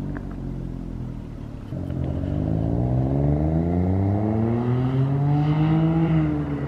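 Smart Fortwo's 1.0-litre three-cylinder engine, breathing through an aftermarket Solo Performance exhaust, accelerating hard: the engine note climbs steadily for about four seconds, then drops sharply near the end.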